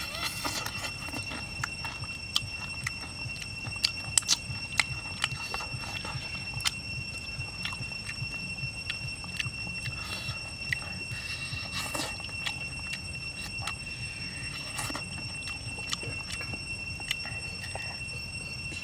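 A person chewing and biting grilled chicken offal off a wooden skewer, close up: irregular sharp mouth clicks and smacks, a few clustered about four seconds in and again near twelve seconds, over a steady high-pitched whine.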